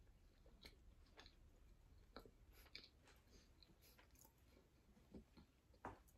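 Near silence with a few faint, short mouth clicks and smacks from someone chewing a bite of soft red velvet pound cake.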